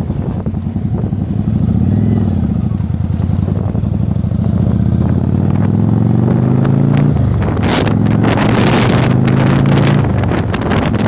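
Yamaha Virago 1100's V-twin engine pulling on the road, its pitch rising, dropping sharply about seven seconds in, then rising again. Heavy wind buffeting on the microphone in the second half.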